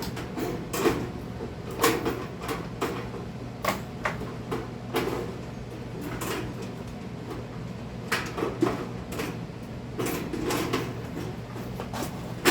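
Irregular clanks and knocks of a kerosene heater's sheet-metal parts being handled and worked on by hand.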